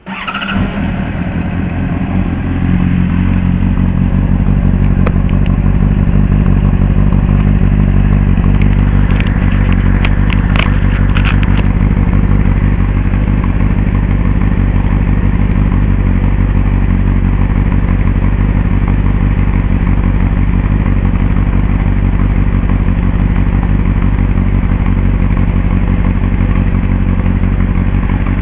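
Honda CBR600RR inline-four sport bike running through a Mugen slip-on exhaust: the engine sound comes in abruptly, builds over the first few seconds, then holds a steady idle. A few sharp clicks sound about ten seconds in.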